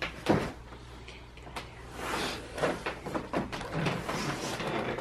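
Irregular knocks, clicks and rustling of things being handled, with one sharp knock just after the start.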